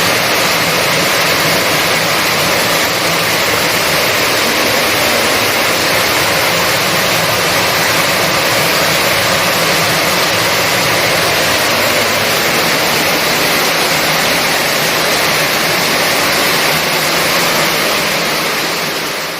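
Heavy rain pouring down in a steady, dense hiss, starting to fade out near the end.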